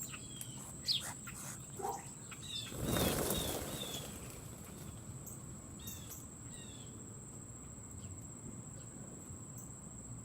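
Small birds chirping at a feeder, with a short rush of flapping wings about three seconds in, followed by a quick run of chirps; a few more chirps come about six seconds in.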